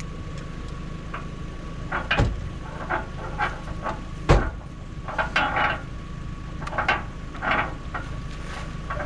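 Recovery rigging being handled: irregular knocks and clanks of shackles and gear, two of them sharper and louder about two and four seconds in, with short bursts of clatter between. Under it a steady low rumble of a vehicle running and a faint steady tone.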